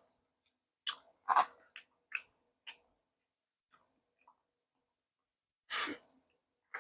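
Close-miked chewing of Korean side dishes: a run of short, crisp, crunchy bites in the first half, then a louder, longer burst of noise near the end.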